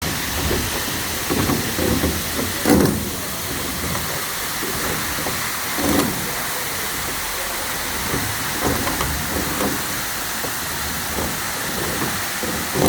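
Manai Falls waterfall rushing steadily, a loud even hiss of falling water. Brief louder low bumps come through now and then, the strongest about three seconds in, about six seconds in, and at the very end.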